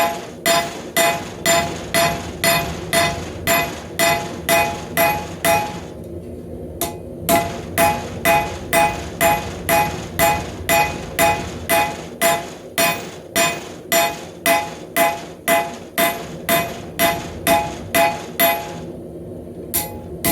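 Hand hammer striking hot 1/2 inch rebar on an anvil, about two ringing blows a second, as the knife's blade end is drawn out. The hammering breaks off briefly twice, about six seconds in and near the end.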